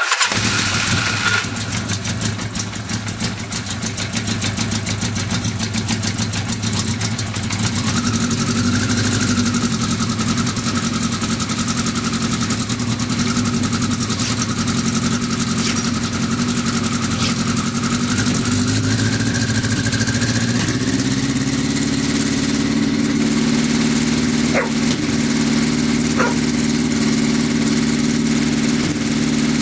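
Kawasaki Z1000 LTD's air-cooled inline-four motorcycle engine starting from freezing cold on the first start of the day, its carburettors untouched. It fires up at once through an old Harris exhaust and runs a little unevenly at first, then settles to a steady idle. About twenty seconds in the engine speed rises a step and holds at a higher idle.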